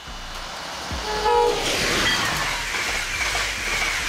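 Electric locomotive hauling a passenger train past at speed: steady rushing rail noise, with a short horn chord of several tones about a second in.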